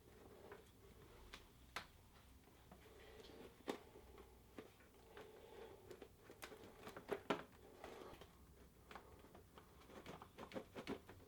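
Faint, scattered clicks and small knocks as a motorcycle airbox is worked by hand onto the back of the carburettors, with a few quick ones close together in the second half.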